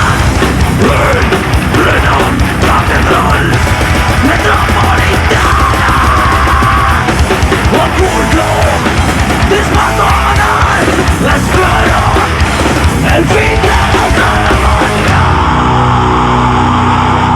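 Live heavy metal band playing loud and dense, with distorted guitars, bass and drums and no vocals. Near the end the texture changes to long held notes.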